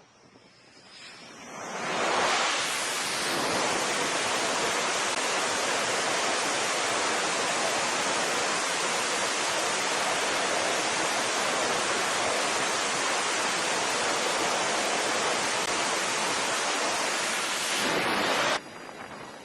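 A steady, loud rushing noise that swells up over about two seconds, holds level, and cuts off abruptly near the end.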